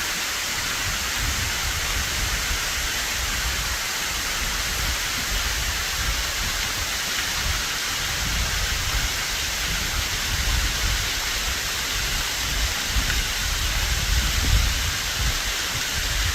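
Mary Jane Falls, a cliff waterfall running high with spring run-off, cascading in a steady rushing hiss with an uneven low rumble underneath.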